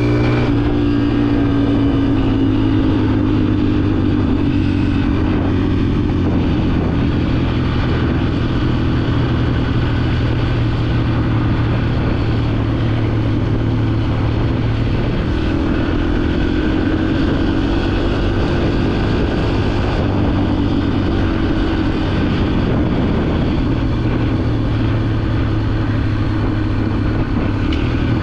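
Yamaha dirt bike engine running steadily while being ridden. Its pitch drops just at the start, then rises and falls gently a couple of times.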